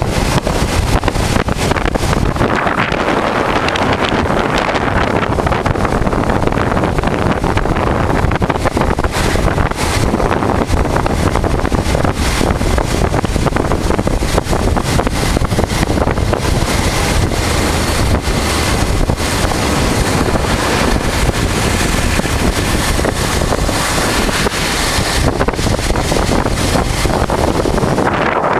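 Wind buffeting the microphone on a moving motorcycle, with the 1988 Honda Transalp's V-twin engine running steadily underneath at riding speed.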